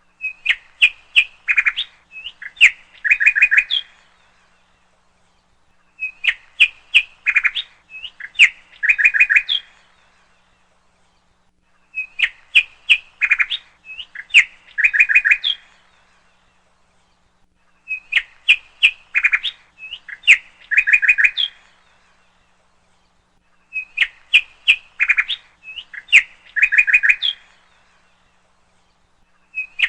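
A bird chirping and trilling in bursts of about four seconds, each followed by about two seconds of silence. The same phrase repeats every six seconds, five times over, like a looped recording.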